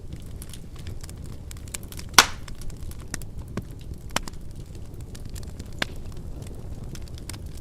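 Wood burning in a fireplace: a steady low sound of flames with scattered small crackles. One loud pop comes about two seconds in, and two smaller pops follow later.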